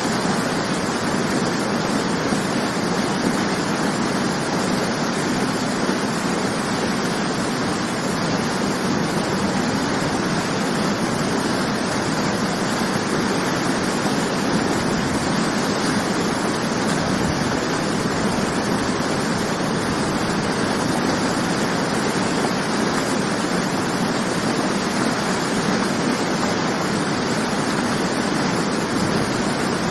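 Natural waterfall: water falling and rushing in a steady, unbroken roar.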